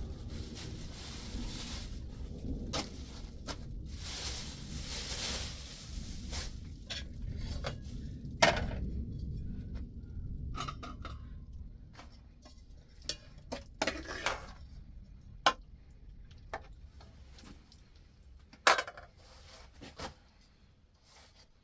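Scattered knocks and clinks of objects being handled, over a low steady rumble and hiss that fades out after about eight seconds.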